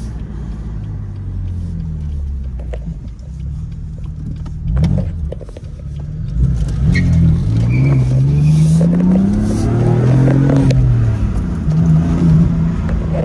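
A 2018 BMW M3's twin-turbo inline-six engine pulls the car along, heard from inside the cabin. About halfway through its pitch rises steadily as the car accelerates, then it drops and settles near the end.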